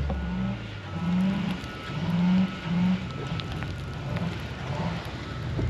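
Car engine revving in short repeated bursts, its pitch stepping up and down between bursts.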